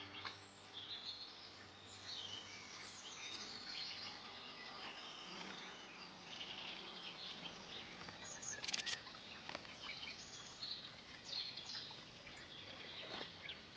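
Small songbirds chirping and twittering in short, quick calls, faint over a quiet outdoor background.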